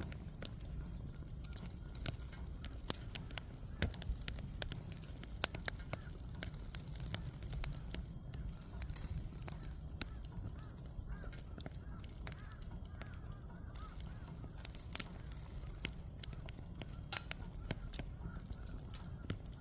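Firewood burning with a steady low rush of flame and irregular sharp crackles and pops, a few louder snaps standing out. Through the middle a faint wavering squeal rises and falls.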